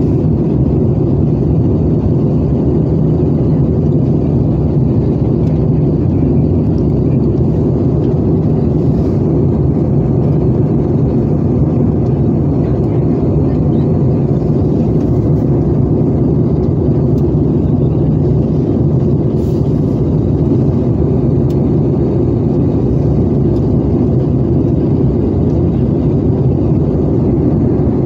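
Airbus A320 cabin noise on approach: a steady low hum and rush of air from the engines and the airflow past the fuselage, even throughout with no touchdown or sudden change.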